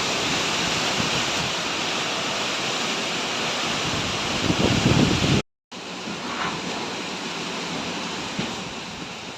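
Rain pouring down in a nor'wester thunderstorm, with wind gusting on the microphone. The sound drops out for a moment about halfway and comes back a little softer.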